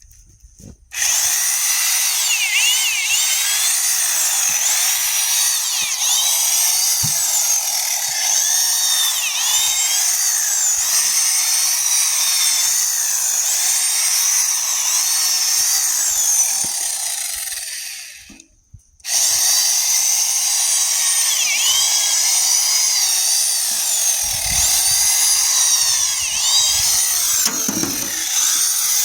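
Hammer drill spinning a garden auger into a compost heap, starting about a second in and running steadily, its pitch wavering as the load changes. It stops briefly past the halfway mark, then starts again.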